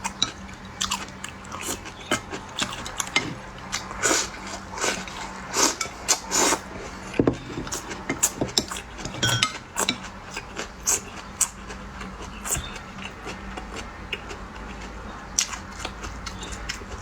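A person biting and chewing food close to the microphone: a run of short, irregular mouth clicks and smacks that is busiest for the first twelve seconds and thins out toward the end.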